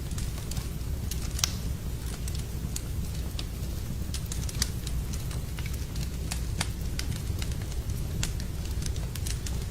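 Fireplace fire crackling: irregular sharp pops and snaps, several clearly louder, over a steady low rumble of the flames.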